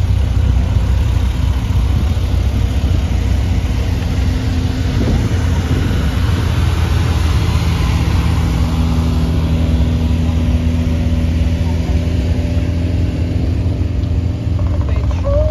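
Several classic Minis' A-series four-cylinder engines running at idle and low speed as the cars creep past in a queue: a steady low engine rumble, with one engine's tone coming through more clearly from about halfway through.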